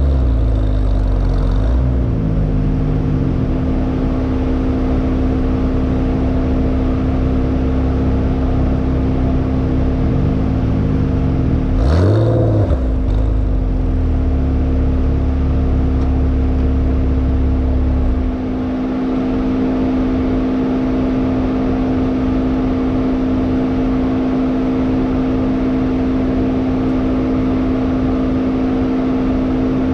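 Hyundai Elantra N's 2.0-litre turbocharged four-cylinder running hard on track, heard from inside the car. There are quick rev swoops, as at gear changes, right at the start and about 12 seconds in, and the deep rumble drops away about 18 seconds in as the engine eases off.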